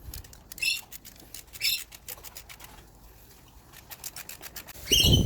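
Ratchet wrench clicking in short bursts as bolts on the thermostat housing are run down, with a louder burst of clicks and a knock near the end.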